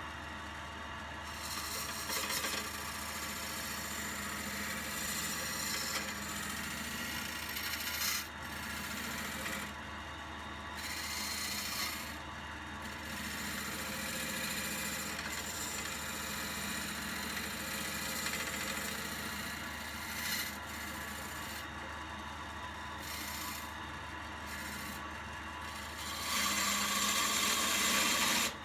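Wood lathe running with a steady low motor hum while a tool scrapes against the spinning wood, the scraping easing off and coming back several times and louder near the end.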